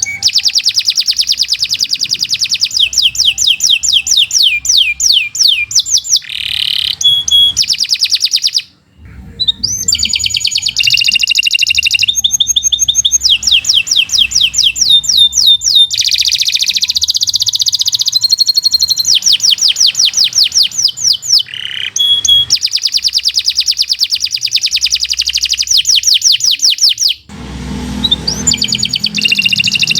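Domestic canary singing a long, continuous song of rapid repeated trills and chirps, with brief pauses about a third of the way in and near the end.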